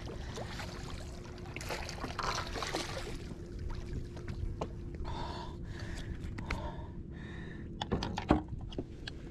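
Water splashing and small knocks on the boat while a large jack crevalle is handled after the fight, with heavy breathing in the middle and a faint steady hum underneath. One sharp knock near the end is the loudest sound.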